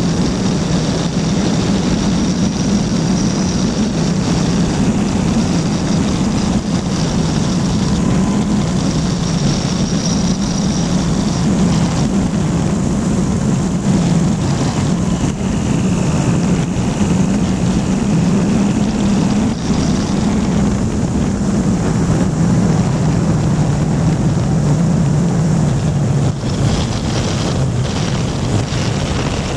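Flightstar II light sport aircraft's engine and propeller running steadily, close and loud.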